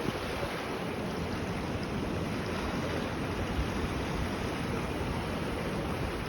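Floodwater rushing past in a steady roar of noise.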